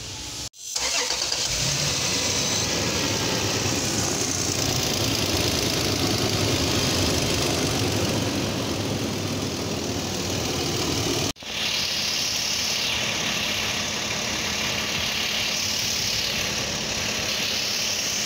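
Toyota 1GR-FE 4.0 L V6 engine running steadily at idle, turning a newly fitted serpentine drive belt over new idler pulleys. The sound cuts out for an instant twice, about half a second in and about eleven seconds in.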